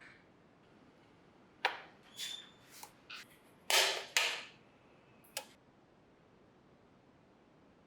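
A handful of sharp clicks and taps, a couple of them with a brief ringing tone, the loudest pair close together near the middle, then quiet hiss.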